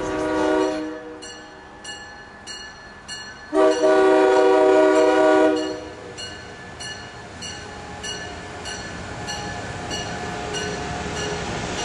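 Amtrak Acela high-speed trainset passing through a station at speed and sounding its multi-note horn: a short note fading in the first second, then one long blast from about three and a half to five and a half seconds. After that comes the steady rush and wheel clatter of the passing cars.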